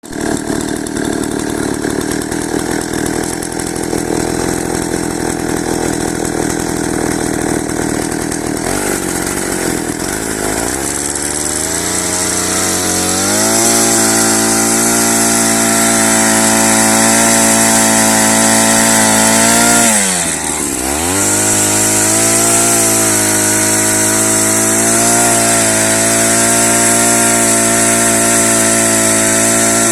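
Ural two-stroke chainsaw running and sawing wood. The engine note climbs to high revs about ten to thirteen seconds in and holds there. It dips sharply and recovers about twenty seconds in, then runs on at high revs with small wavers.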